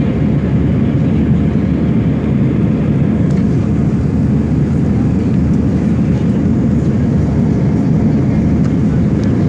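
Airliner taking off: a steady low rumble of engines and airflow that holds level without change.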